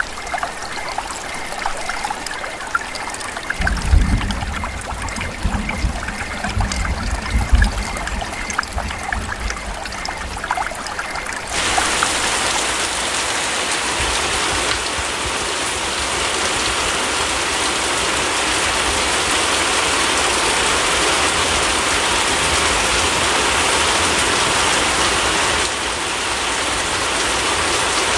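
Rain: dripping and trickling water with scattered drip ticks and some low thumps, then, about halfway in, an abrupt switch to the steady, dense hiss of heavy rain.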